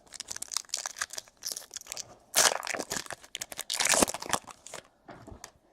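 Crinkling and tearing of a foil trading-card pack wrapper being ripped open, in a run of sharp rustles and crackles that are loudest twice, about two and a half and four seconds in.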